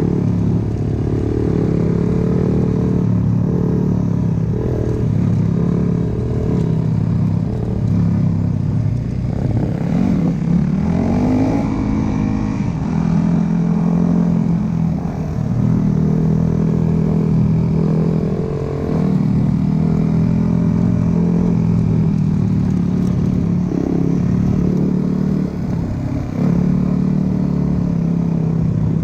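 Dirt bike engine running and revving, its pitch rising and falling repeatedly as the throttle opens and closes.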